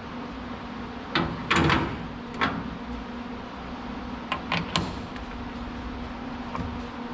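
Metal lathe running with a steady hum while the end of a bushing is faced, with a handful of short scrapes and clunks from the cut and the tool being worked.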